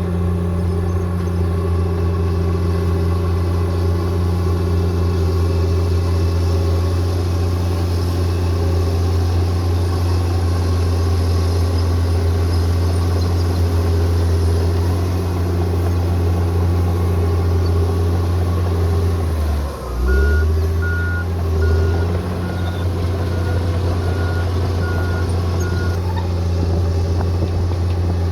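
Bulldozer's diesel engine running steadily under work. About two-thirds of the way through, its pitch dips and swings back up. A reversing alarm then sounds a series of short, evenly spaced beeps for about six seconds.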